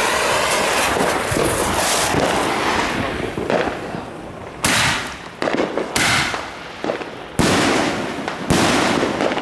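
Fireworks going off: a long stretch of crackling, then four sharp bangs spaced about a second to a second and a half apart, each trailed by crackle.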